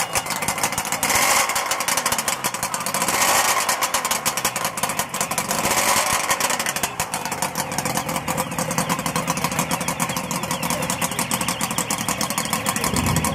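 Custom 500cc V4 two-stroke motorcycle engine (Suzuki RG500 bottom end, Ariel Arrow heads and barrels, custom expansion-chamber exhausts) running, its revs raised by throttle blips three times in the first half, then settling to a steadier idle.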